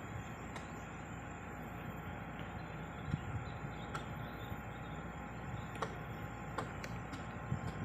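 Heavy diesel machinery running steadily at work, with a few short sharp clicks and knocks now and then.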